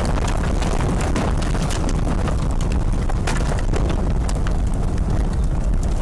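A tornado's winds passing directly over a house: a loud, steady rush of wind with a heavy low rumble on the microphone, and many sharp knocks and clicks of debris striking throughout.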